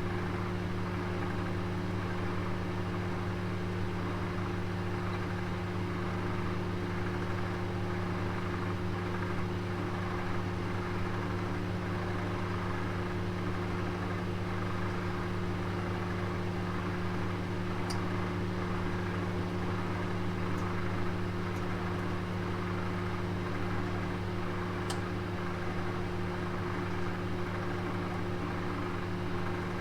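Oven running with a roast cooking inside: a steady hum with a hiss over it, and a few faint ticks in the second half.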